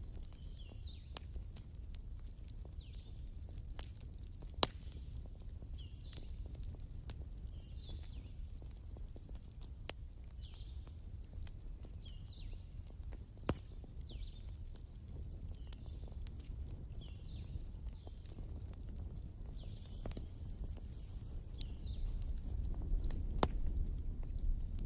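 Fire crackling over a low rumble, with a few sharp pops. Short high chirps repeat about once a second behind it, with a brief high trill and a short whistle.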